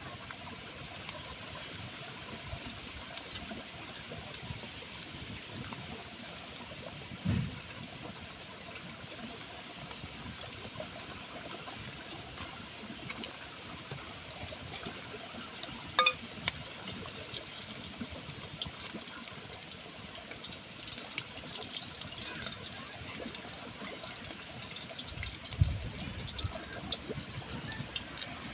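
Steadily trickling, running water, with scattered small clicks, a sharp click about halfway through and a couple of dull low thuds.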